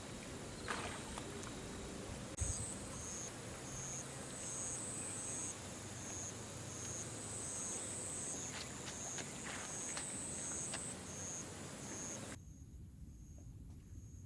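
Insects chirping in short, evenly repeated high-pitched pulses over a steady hiss, with a few light clicks. The hiss drops away sharply near the end.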